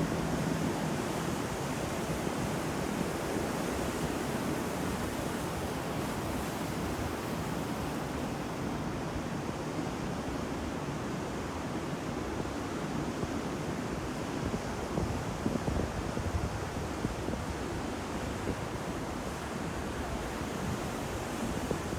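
Ocean waves breaking and washing on the shore in a steady roar of surf, with wind on the microphone.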